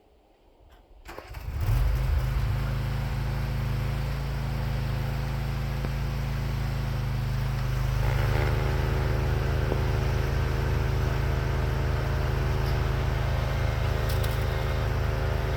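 Craftsman YT4000 lawn tractor engine starting about a second in and then running steadily. About halfway it gets a little louder as higher whirring tones join in.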